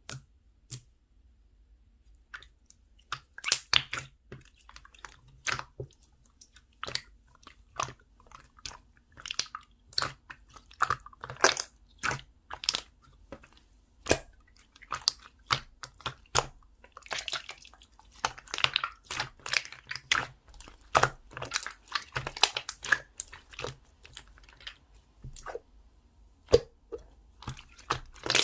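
Handmade slime being squeezed and worked by hand, giving irregular sharp clicks and crackles with wet squishes, thicker in runs partway through.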